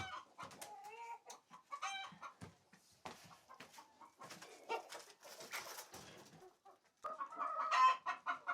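Hens clucking: a few short calls, then scattered clicks and rustling, then a louder run of clucks near the end.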